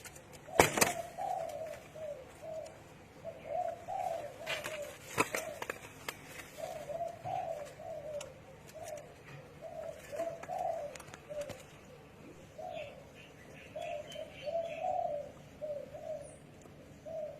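Spotted doves cooing: short, repeated low coo phrases one after another, with a couple of sharp clicks, the loudest about half a second in and another about five seconds in. Faint higher chirps come in later on.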